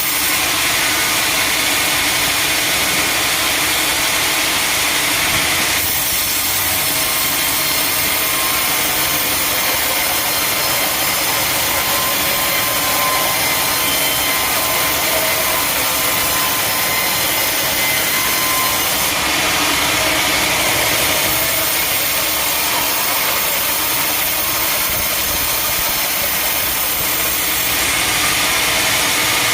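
Sawmill machinery running steadily, a loud even noise that changes in tone a few times, typical of a saw working through a log.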